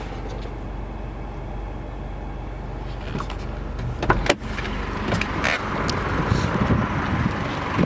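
Mercedes B200 CDI's 2.0 turbodiesel engine idling with a steady low hum, heard from inside the car. About four seconds in come a few sharp clicks and knocks, followed by busier handling noise with more clicks.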